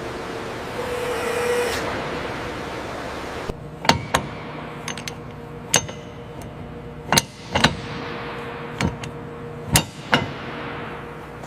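A steady hiss that cuts off suddenly about a third of the way in, followed by a series of sharp metallic knocks and clinks, some in quick pairs, over a low steady hum.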